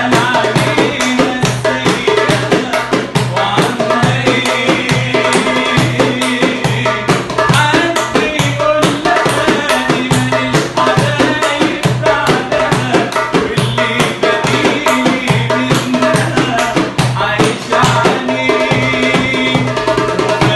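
A man singing an Arabic pop song over quick, steady darbuka strokes.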